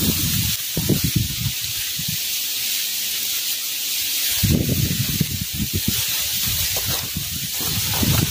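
Strong wind: a steady rushing hiss with gusts buffeting the microphone, which ease off for a couple of seconds in the middle and then come back.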